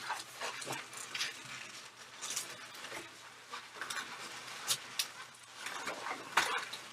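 Latex 260 modelling balloons rubbing and squeaking as they are handled, stretched and twisted together: a string of short, irregular squeaks and rubs.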